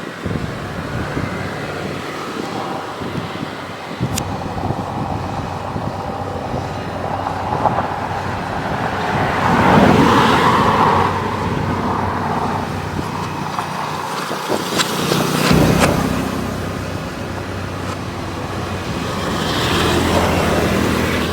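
Excavator working: its motor runs steadily with a low hum and swells in louder surges about ten seconds in, again around fifteen seconds, and near the end.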